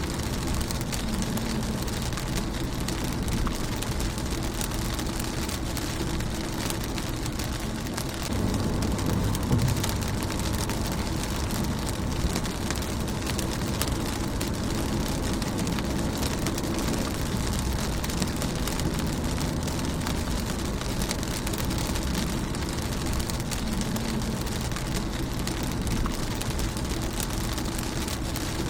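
Steady rain falling on a car windscreen, with fine scattered drop taps over an even hiss. A low rumble runs underneath and swells briefly about nine seconds in.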